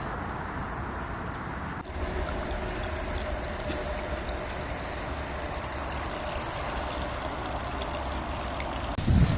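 Running water of a stream: a steady rushing that grows a little louder about two seconds in. Near the end, wind starts buffeting the microphone.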